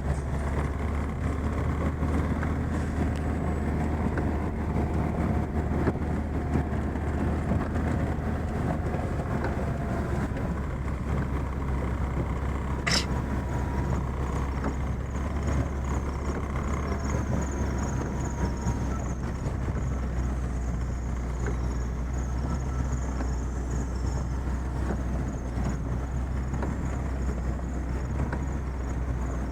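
Chevrolet Niva driving steadily through fresh snow on studded winter tyres, its engine and tyre noise making a continuous low drone. A single sharp click comes about halfway through.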